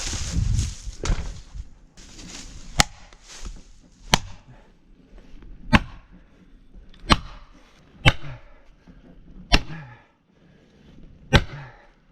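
Seven sharp single blows, about one every second and a half, from a striking tool hitting the tree at the felling cut.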